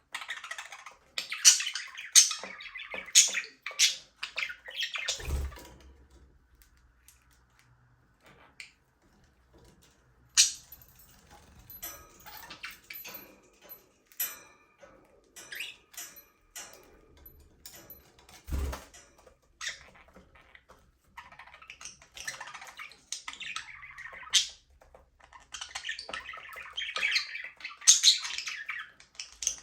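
A flock of budgerigars chirping and chattering, with sharp squawks mixed in. Busy at first, it thins out for a few seconds, then builds up again near the end. There are two dull low thumps, about five and about eighteen seconds in.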